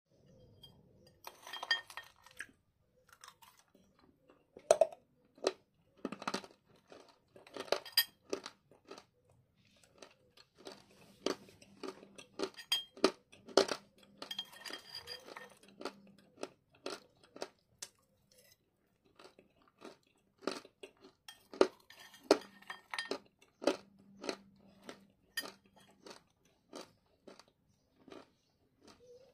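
Close-up biting and chewing of hard lumps of edible clay: sharp crunches in clusters, with a pause of a few seconds past the middle. A metal spoon now and then clinks against the ceramic bowl.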